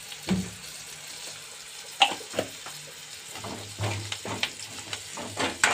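Onions and chillies sizzling in hot coconut oil in a metal kadai, a steady hiss, with a steel spoon scraping and knocking against the pan as chilli powder is stirred in, the scrapes coming more often in the second half.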